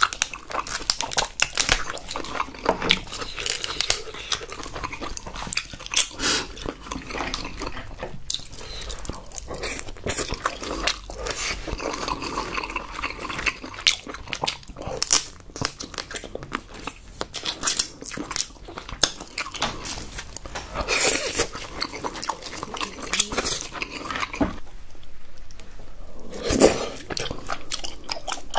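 Close-miked eating: wet chewing and mouth sounds from king crab leg meat and tteokbokki, with many short clicks of chopsticks and crab shell. A louder wet sound comes near the end.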